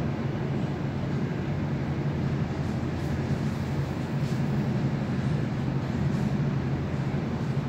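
Passenger-compartment running noise of an NS VIRMm double-deck electric train travelling at speed: a steady low rumble and hum.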